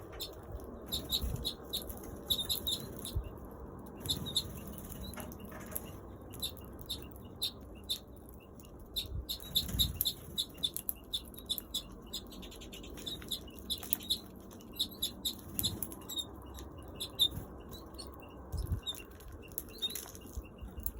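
Aviary birds chirping in many short, high calls, with wings fluttering and occasional soft thumps.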